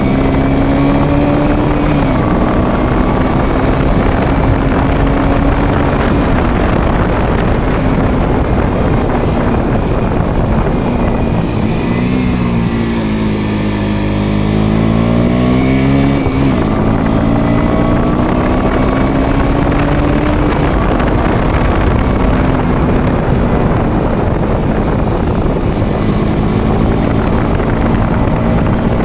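Motorcycle engine running while riding, with wind rushing over the microphone. The engine note steps down about two seconds in and again about six seconds in, dips low and climbs back a little after the middle, then holds steady.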